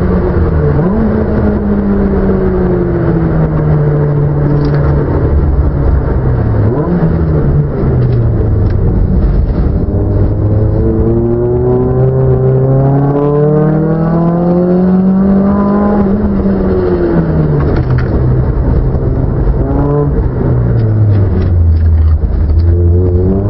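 Car engine heard close and steadily: the revs climb slowly for several seconds and fall back again, with quick throttle blips as it shifts down.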